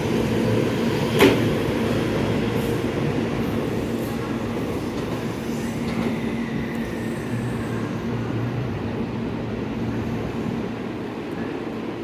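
JR West 223 series and 225 series electric multiple-unit train running at the platform, a steady rumble of wheels and motors that slowly fades. There is one sharp clank about a second in.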